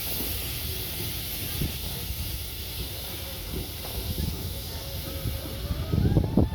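Steady hiss of escaping steam from a 1909 Buffaud-Robatel 031T steam tank locomotive, over a low rumble that grows louder near the end.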